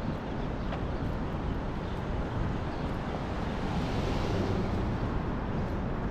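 Steady outdoor background noise, a rumble and hiss of wind and traffic, swelling a little about four seconds in.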